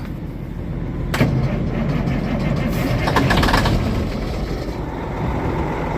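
Large diesel engine running steadily at idle, with a sharp click about a second in and a brief hiss around the middle.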